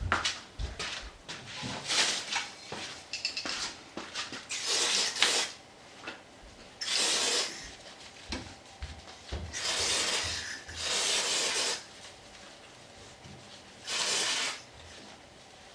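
Small clicks and knocks from handling parts, with five short bursts of rubbing or hissing, each about half a second to a second long.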